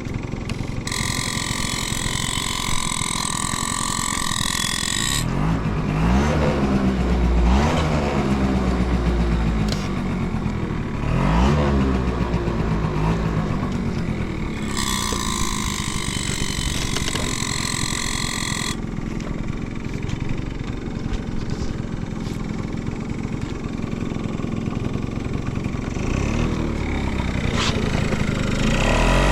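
Yamaha Champ 50 scooter's small two-stroke engine running after start-up with no abnormal noises, blipped up and back down a few times, about six and eleven seconds in and again near the end. Twice a steady high whine with hiss sounds over it for a few seconds.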